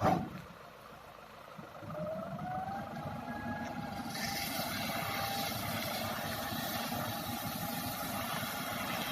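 An engine speeds up with a rising whine, then runs steadily at a constant pitch, with a rushing hiss joining about halfway through. A sharp knock is heard at the very start.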